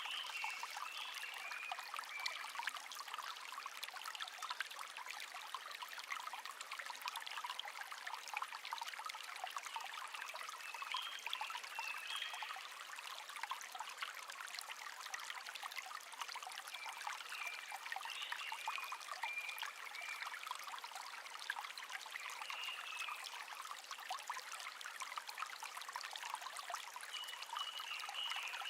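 Shallow stream babbling steadily, with a songbird singing a short warbled phrase several times.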